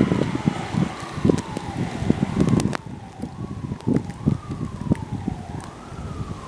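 A siren wailing in the distance, its pitch sweeping slowly down and back up several times, under gusts of wind buffeting the microphone.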